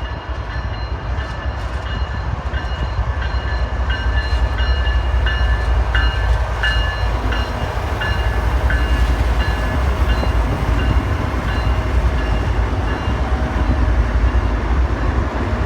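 CSX autorack freight train rolling past: a steady low rumble of wheels on rail, growing slightly louder, with thin high-pitched squeals and scattered ticks over it.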